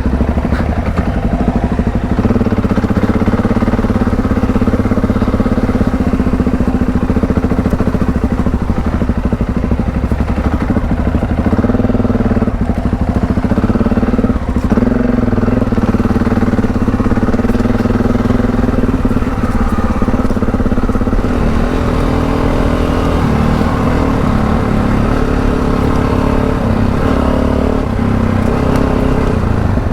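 Parallel-twin adventure motorcycle engine running under load while riding off-road, its pitch holding fairly steady, then shifting up and down in steps over the last ten seconds.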